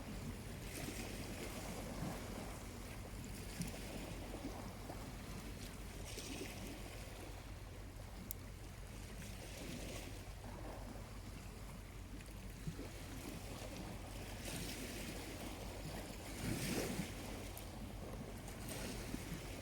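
Small, gentle waves washing onto a beach, a surge every few seconds, with a few faint crackles from a charcoal campfire.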